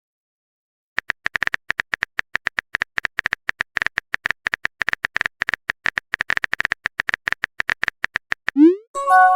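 Phone keyboard typing sound effect: rapid, irregular tap clicks for about seven seconds, then a short rising whoosh and a brief chime of several tones near the end, a message-sent notification.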